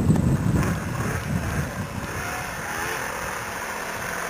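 Snowmobile engine revving, loudest in the first second, then farther off, with its pitch rising and falling.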